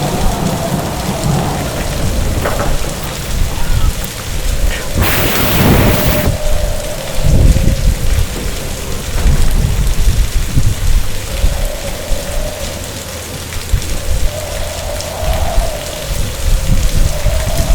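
Heavy rain with rumbling thunder, and one loud thunderclap about five seconds in lasting about a second. A wavering tone rises and falls through the rain.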